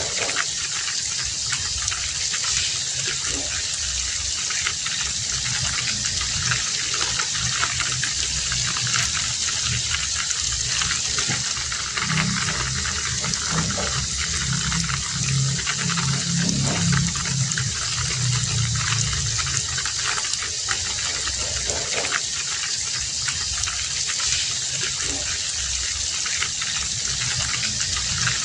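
Heavy rain falling steadily, a dense even hiss of water. A low rumble swells underneath through the middle stretch and fades again.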